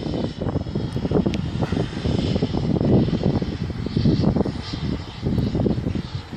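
Wind buffeting the microphone in irregular gusts, over the steady high whine of a model jet's 90mm multi-blade electric ducted fan.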